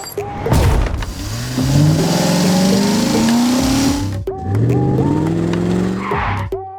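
A vehicle engine revving up twice, its pitch rising steadily each time, over a loud steady hiss.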